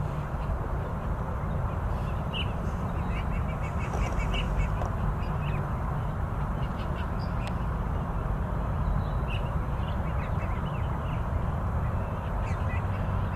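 Wetland ambience: a steady low rush with birds calling in short, rapid series, a couple of seconds in and again from about nine seconds on.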